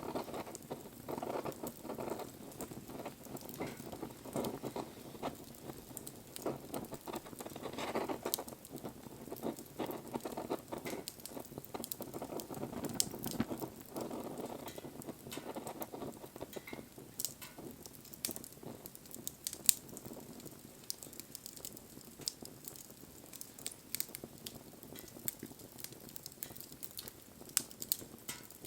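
Wood fire burning, with frequent small crackles and sharp pops over a low rush of flame. The rush is fuller in the first half.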